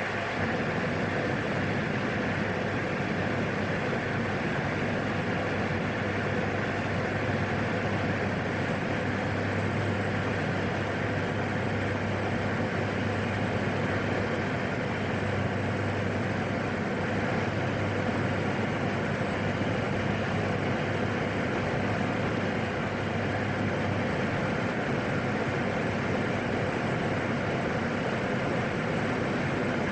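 PAC 750XL's single turboprop engine and propeller running steadily in flight: a constant drone with a low hum.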